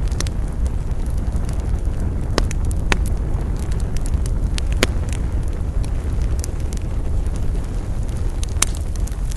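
Wood fire crackling, with many small ticks and a few sharp pops of burning wood (two about two and a half seconds in, one near five seconds, one near the end) over a steady low rumble.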